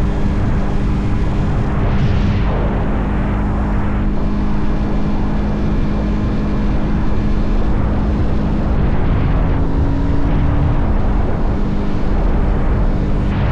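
Motorcycle engine running steadily at cruising speed under heavy wind and road rush. A passing vehicle whooshes by about two seconds in, and the engine note rises slightly and drops back around ten seconds in.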